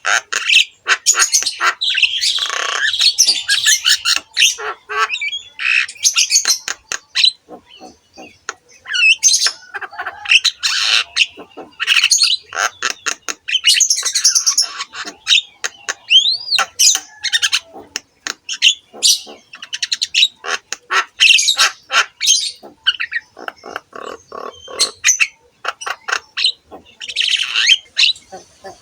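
Javan myna (jalak kebo) singing a long, varied song of harsh squawks, rapid clicking rattles and occasional slurred whistles, broken by brief pauses.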